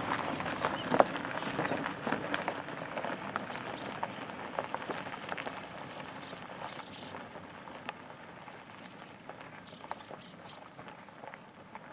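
A dense chorus of many birds calling and chattering, a crackly mass of short squawks and calls, fading out steadily.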